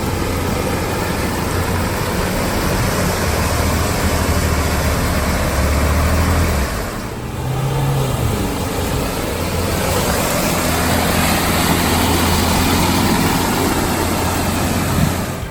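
Off-road vehicle engine running under load, its pitch shifting and rising briefly about seven seconds in, with a steady hiss over it.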